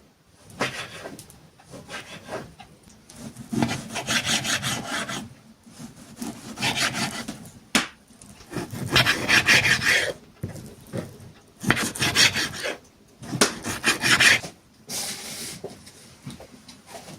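Rasping, scraping strokes in a series of bursts about a second or so long, separated by short pauses, with a single sharp click midway.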